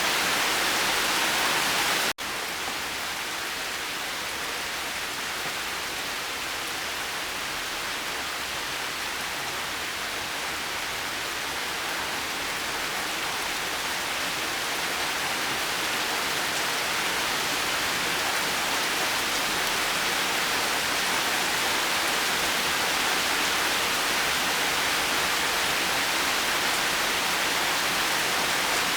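Steady rainfall, an even hiss with no separate drops standing out. About two seconds in it cuts out for an instant and comes back a little softer, then slowly swells again.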